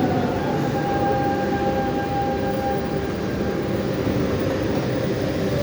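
Lisbon Metro train running on the rails, with a steady rumble and the whine of its electric traction motors. The whine falls in pitch over the first second, as the train eases off speed, then holds level.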